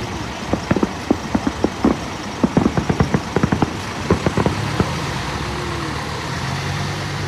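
Fireworks going off, a quick irregular string of sharp bangs and crackles through the first five seconds or so. After that a motor vehicle's engine hums steadily.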